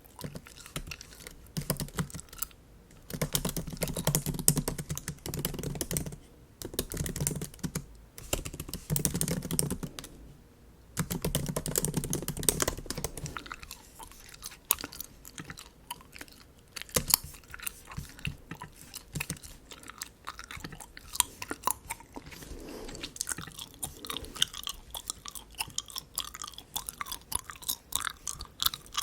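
Bubble gum being chewed, mixed with light tapping on a MacBook keyboard. There are three louder spells of chewing in the first half, then mostly a run of quick, light clicks.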